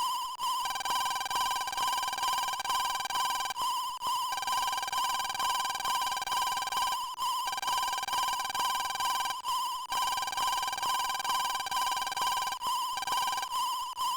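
Warbling electronic tones like a telephone ringing, one high trilling tone held with other tones switching on and off above it, in stretches of a few seconds broken by short gaps.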